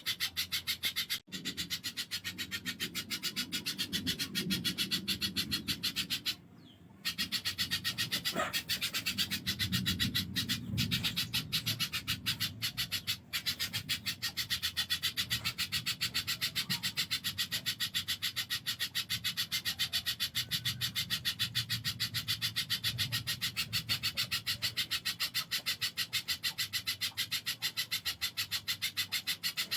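Spiderhunter (pijantung) calling in a rapid, evenly spaced run of harsh chips, with a short break about six and a half seconds in, over a low background rumble.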